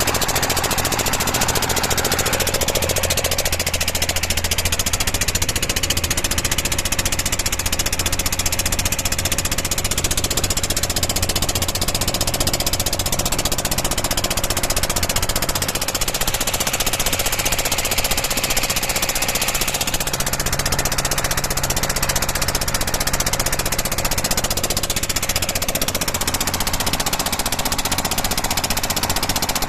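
Boat engine running steadily and loudly with an even, rapid beat that does not change in pace.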